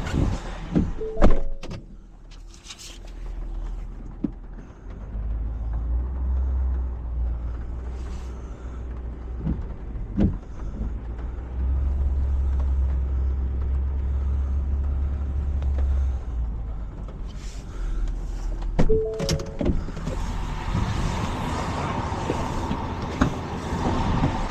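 Tow truck engine running, a low steady drone that builds about five seconds in and is heaviest for a few seconds after the middle, then eases off. A few sharp clicks and thunks come near the start and again shortly before the end.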